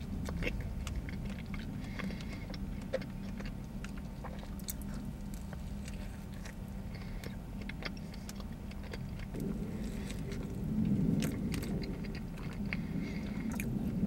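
A person chewing a soft, cream-filled donut with the mouth closed: small wet clicks and smacks, over a steady low hum.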